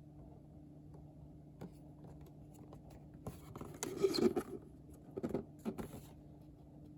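Handling of the cordless phone's cardboard box and packaging: a few seconds of rustling and scraping with sharp clicks, starting about three seconds in and stopping about a second before the end, over a steady low electrical hum.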